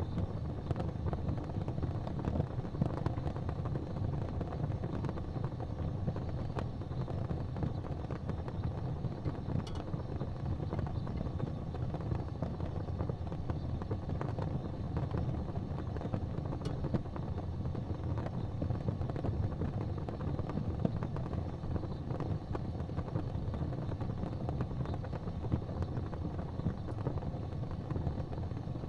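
Wood fire burning in a fireplace: a steady low rumble of flames with frequent small crackles, and a couple of sharper pops.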